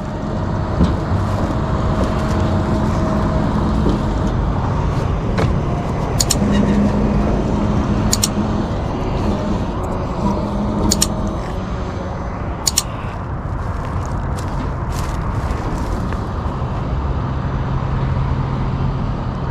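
Tow truck engine running steadily, its pitch shifting now and then, as the jet ski is winched back in, with a few sharp clicks partway through.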